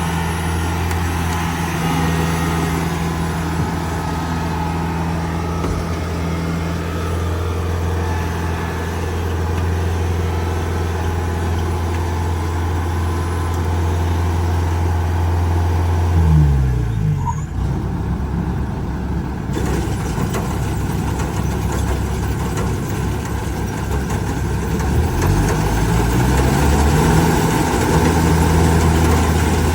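Kubota DC70G Plus combine harvester's diesel engine running at a steady speed. About halfway through its pitch drops sharply and it runs lower and rougher for several seconds, then it climbs back up to the earlier steady speed near the end.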